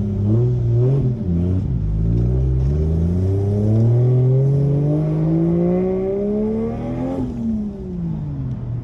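Turbocharged 1JZ-GTE inline-six in a Toyota Soarer accelerating hard through a 3-inch custom exhaust. The revs climb and drop back in quick shifts at first, then rise steadily for about five seconds in one gear before the throttle closes near the end and the revs fall away.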